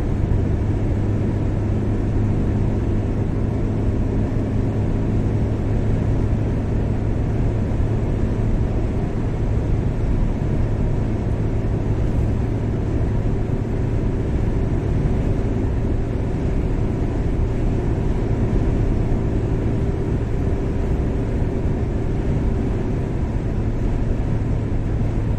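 Car driving steadily on a highway: a constant engine and road-noise rumble with a low hum, unchanging throughout.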